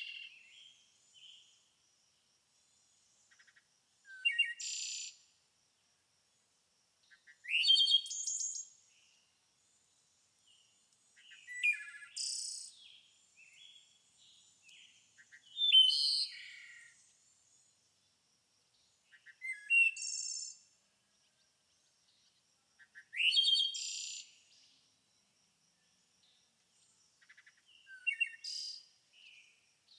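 A songbird singing short, complex high-pitched phrases, each about a second long with a rising sweep and trills. The phrases repeat roughly every four seconds, with quiet between them.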